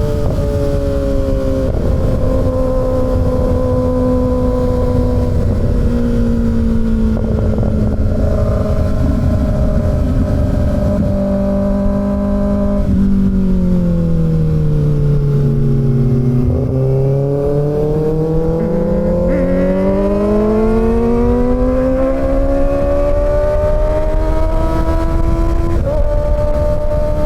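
Kawasaki Ninja ZX-6R inline-four engine under way. Its pitch eases down, drops lowest around halfway as the bike slows, then climbs steadily under throttle, with a few small steps in pitch at the gear changes.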